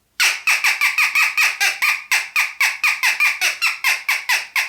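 Acme crow call blown as a jackdaw call: a rapid run of short squawking notes, about four or five a second, each falling in pitch.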